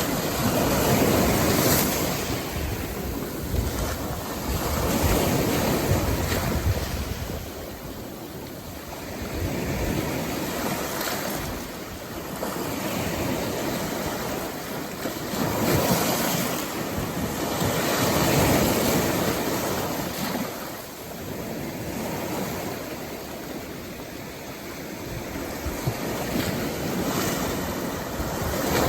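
Rough sea after a typhoon: heavy surf breaking and washing in swells every few seconds, with wind buffeting the microphone.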